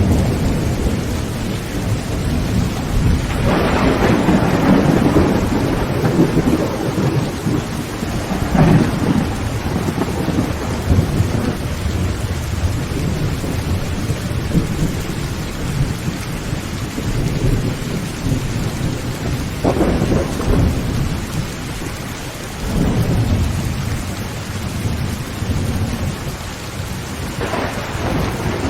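Heavy rain drumming steadily on a tin roof, with about five rumbles of thunder rolling in and fading, the strongest a few seconds in, near the middle and near the end.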